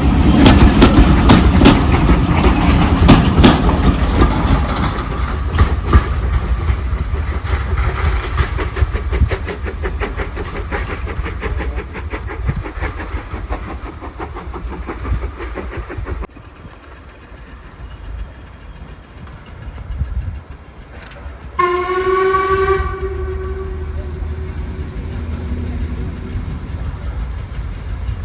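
Steam train passing, its wheels clattering over the rail joints, the clatter loud at first and fading as it draws away. After a sudden break, a single whistle blast of about a second and a half comes near the end.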